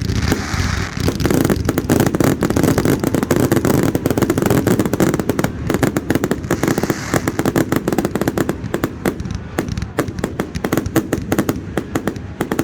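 Fireworks display: a dense, continuous barrage of bangs and crackles, thinning to more separate bangs in the last few seconds.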